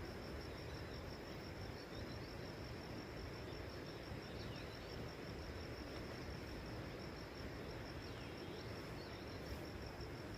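An insect trilling steadily at a high pitch, a fast, even pulsing, over a steady background hiss, with a few faint short chirps.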